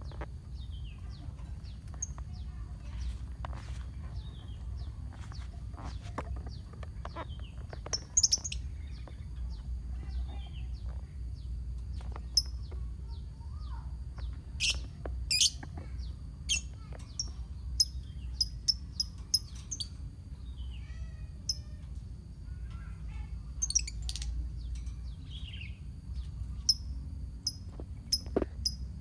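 A colony of lovebirds chirping: many short, sharp chirps and calls at irregular intervals, some falling quickly in pitch, over a steady low hum.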